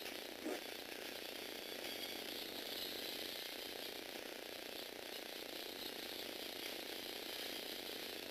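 Small electric motors and plastic gear trains of a Lego Technic all-wheel-drive model whirring steadily, with a brief knock about half a second in.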